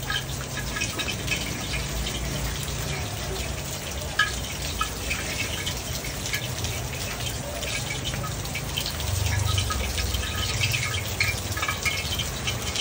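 Steady rain falling, with many close drips ticking throughout.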